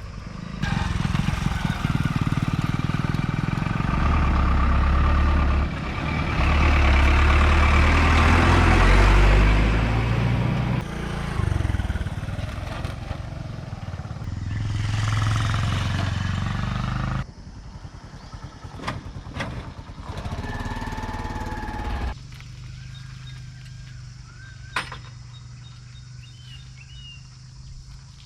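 Loud, low heavy-vehicle engine noise from a train or a backhoe loader at a level crossing, changing in pitch, in clips cut together, breaking off abruptly about 17 s in; after that comes quieter outdoor ambience with a few sharp clicks and faint bird chirps.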